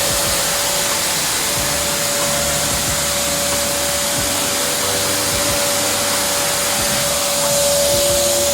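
AmazonBasics 1400 W wet-and-dry vacuum cleaner running: a steady rushing motor noise with a constant whine, growing slightly louder near the end.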